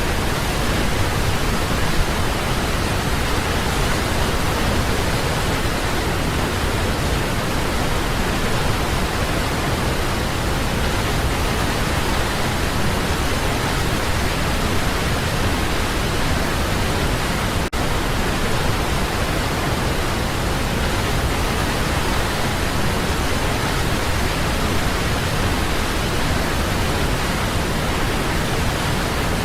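Waterfall: water falling steadily in an unbroken rushing hiss, with a brief dropout about eighteen seconds in.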